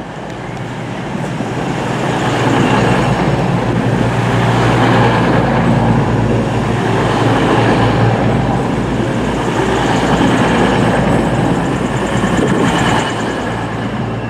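A diesel train moving close by through the station, its engine note and rail rumble building over the first couple of seconds, holding steady, then easing near the end.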